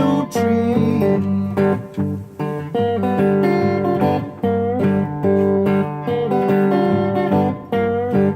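Guitar playing a Mississippi Hill Country blues riff, repeated plucked notes over a steady low bass line, with no singing.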